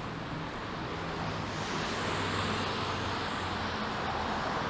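Street traffic on wet pavement: a vehicle passing with a tyre hiss that swells about two seconds in, over a steady low engine hum.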